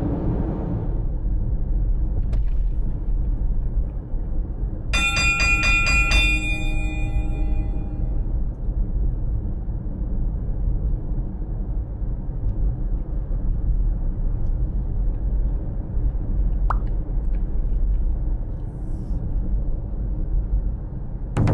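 Steady low rumble of a moving vehicle, like road noise heard from inside. About five seconds in, a short bright chiming jingle of quick repeated notes rings out over it.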